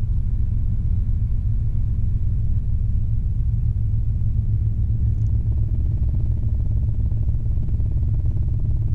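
Robinson R22 helicopter's rotor and four-cylinder piston engine running in flight with a steady low drone, as power comes back on after a practice autorotation. A faint higher hum joins about halfway through.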